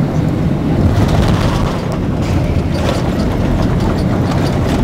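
Steady low rumble inside a Boeing 767-300's cabin as the jet rolls on the ground after landing, with faint light rattles from about two seconds in.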